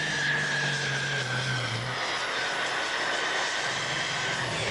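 A pulling tractor's engines running, with a high steady whine over a noisy engine sound. The low engine note drops away about two seconds in.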